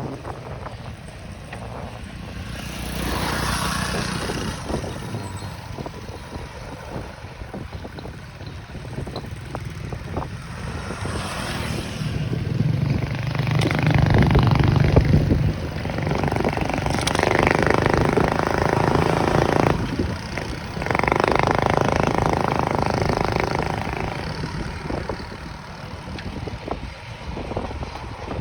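Vehicle and road noise heard while riding, with wind on the microphone. It swells and fades, loudest over the middle and latter part.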